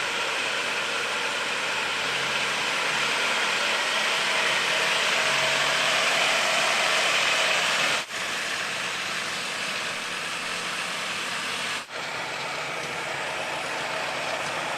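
An engine running steadily at idle, as a fairly even noise. The sound cuts sharply about 8 and 12 seconds in, where separate takes are joined.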